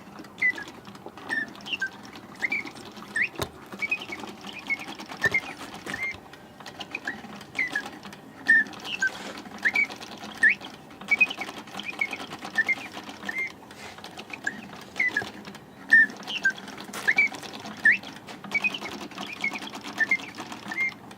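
French Bontems double singing-bird automaton playing: its bellows-blown whistle chirps and warbles in quick, short rising and falling notes over the steady whirr of the clockwork mechanism, with an occasional click. The bellows are a little weak on this one.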